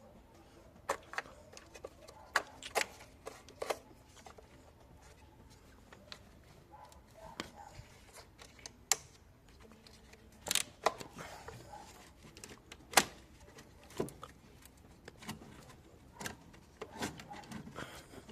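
Scattered sharp clicks and knocks, a dozen or so at irregular intervals, as of hard objects being picked up and set down.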